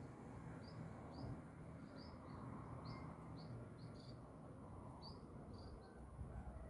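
Yellow-vented bulbul calling: a string of short, faint, high chirps at an irregular pace, a couple a second.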